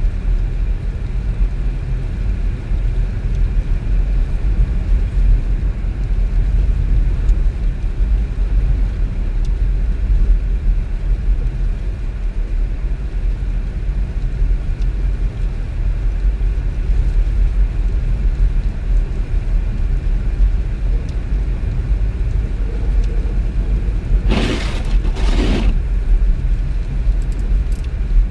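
Steady low rumble of a car driving, engine and road noise. Near the end come two short swishes about a second apart.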